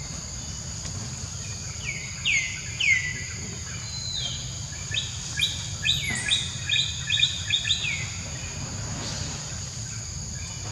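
A bird calling with short whistles that slide downward, two around two to three seconds in, then a quick run of about ten notes from about five to eight seconds, over a steady high-pitched hum.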